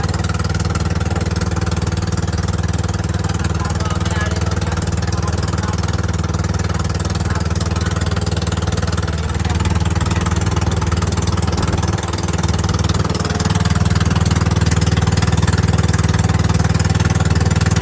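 Engine of a motorised outrigger boat (bangka) running steadily, a little louder about two thirds of the way through.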